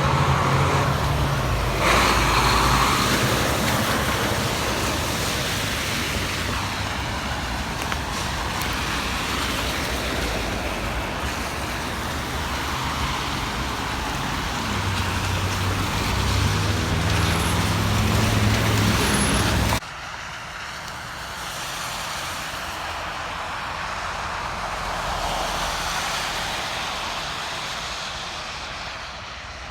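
Road traffic: motor vehicles passing with engine hum and tyre hiss. The sound drops suddenly to a quieter traffic haze about 20 seconds in.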